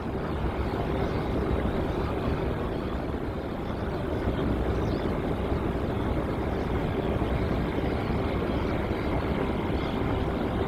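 Jet airliner engines running with a steady roar and a constant hum near 400 Hz and a fainter whine above it. The sound swells up in the first half-second, then holds steady.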